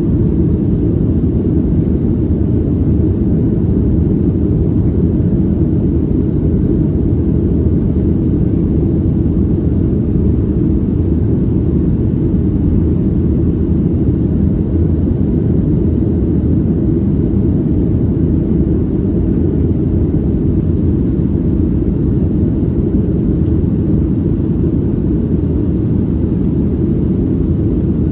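Boeing 737-700 jet engines (CFM56-7B turbofans) running at steady power, a constant low rumble of engine and airflow noise that does not change.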